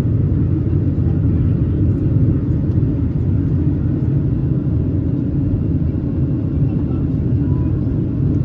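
Steady low rumble of a Boeing 737-700's CFM56 jet engines and airflow, heard inside the passenger cabin.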